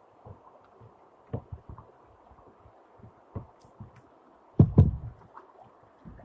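Dull thuds and knocks on a kayak as it is paddled, a few scattered ones and a loud double knock about four and a half seconds in.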